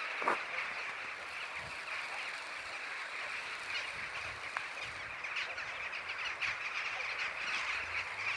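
A large flock of birds calling all at once, a dense continuous chatter of many overlapping short calls, with one louder call just after the start.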